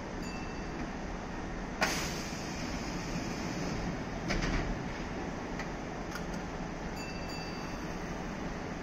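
Kintetsu commuter train at the station: a steady rumble with a sharp knock about two seconds in and a cluster of clicks around four and a half seconds. A faint short high tone sounds near the start and again about seven seconds in.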